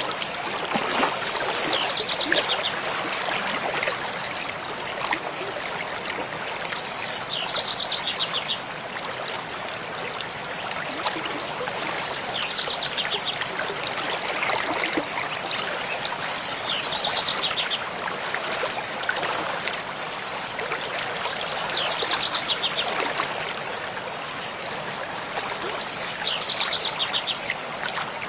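Mountain stream flowing steadily, with a songbird singing the same short phrase of rapid high notes about every five seconds.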